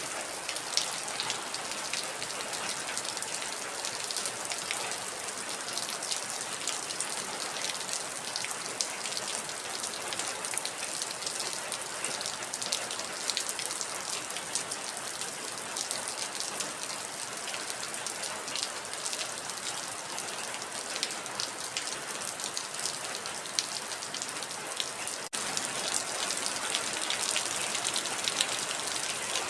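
Heavy rain falling steadily, with dense patter of individual drops over an even hiss. There is a momentary break about 25 seconds in, after which the rain is a little louder.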